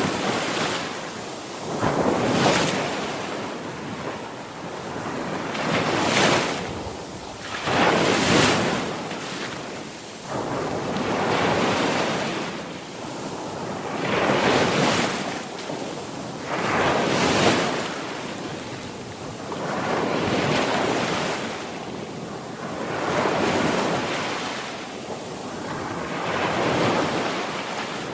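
Ocean surf: waves breaking and washing in over and over, each surge swelling and fading every two to three seconds.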